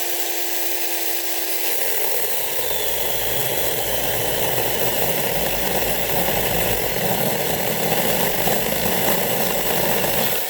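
Mini chainsaw running at full speed and cutting into a small log for a notch cut. It gives a steady whine for the first two seconds, then the rougher, slightly louder sound of the chain biting through wood, and cuts off at the end.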